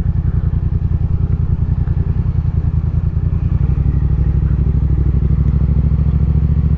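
Motorcycle engine running steadily, a fast even pulsing beat that holds without revving up or down.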